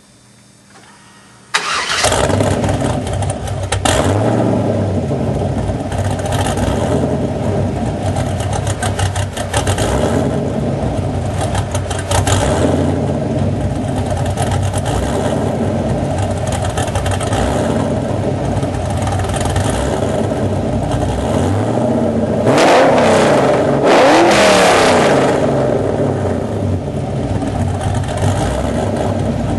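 1998 Pontiac Trans Am's 5.7-litre LS1 V8 with an aftermarket cam, long-tube headers, catless Y-pipe and Magnaflow muffler, firing up suddenly about a second and a half in and then idling with a few short throttle blips. Around twenty-two seconds in it is revved harder, the exhaust note rising and falling over a couple of seconds.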